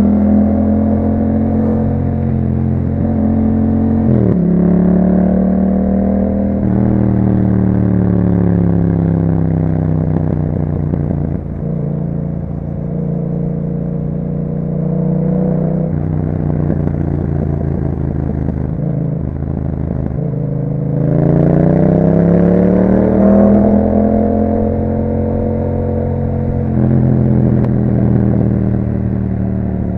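Yamaha MT-07 parallel-twin engine through an Akrapovic exhaust with a dB killer, riding under changing throttle. The pitch steps up suddenly about four seconds in, sinks slowly as the bike slows, then climbs again under acceleration a little over twenty seconds in.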